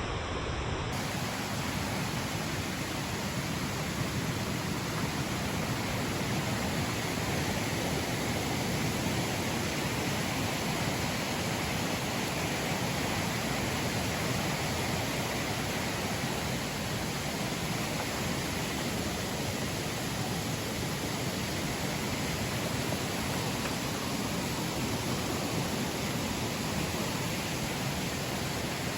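Steady, unbroken rush of flowing water from a mountain stream.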